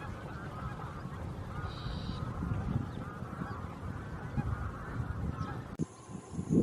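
A flock of geese honking, many calls overlapping, over a low background rumble; it stops abruptly about a second before the end.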